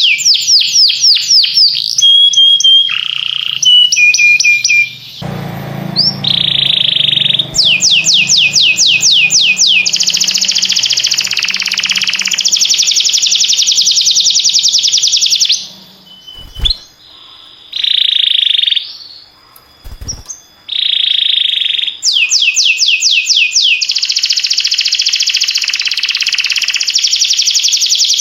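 Canary singing: fast trills of rapidly repeated, downward-sweeping high notes, broken by short pauses, with a quieter break about two-thirds of the way through.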